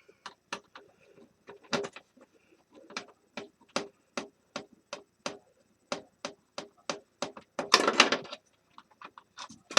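Screwdriver backing a screw out of a space heater's plastic housing: a run of small sharp clicks, about three a second, then a brief louder scraping rattle near the end as the part comes loose.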